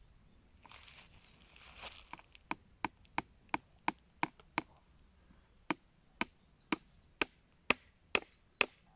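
A hammer tapping a nail into an oak bird box: a short scrape, then seven quick taps, a brief pause, and seven slower, steady taps, each with a faint metallic ring.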